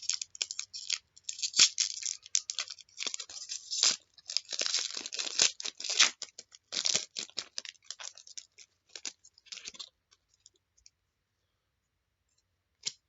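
A trading card pack wrapper being torn open and crinkled, followed by scattered light clicks of cards being handled. The sound dies away about ten seconds in.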